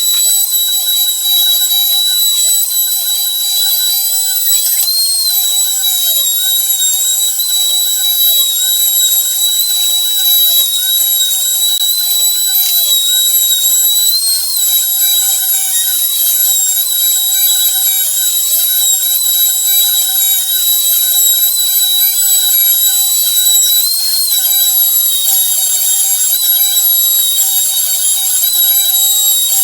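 Homemade CNC machine cutting: a steady high-pitched whine from the spindle motor, with the stepper motors' lower tones gliding up and down and changing pitch every second or so as the axes move.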